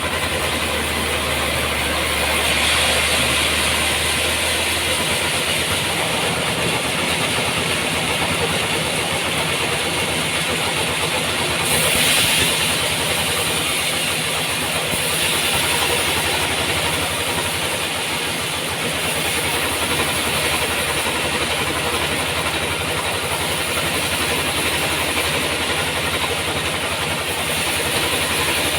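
Sawmill running: a steady engine hum under a loud, continuous hiss of the saw, which swells a few times as it cuts through a large trembesi (rain tree) log.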